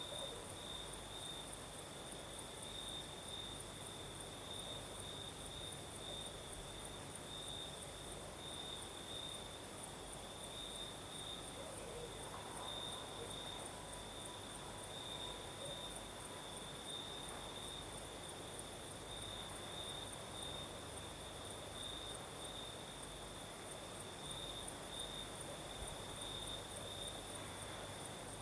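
Crickets chirping at night in a continuous, evenly pulsing trill, with a second, higher-pitched insect trill running alongside it.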